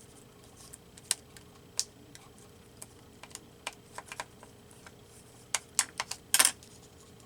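Paper and crafting tools being handled at a work table: irregular light clicks and taps, with a quick cluster of them about five and a half seconds in ending in a brief scrape, over a faint steady hum.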